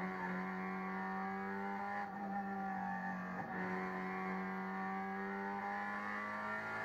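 A race car's engine running at high revs, heard from inside the cabin, with a steady pitch that dips briefly about two seconds in and again about three and a half seconds in.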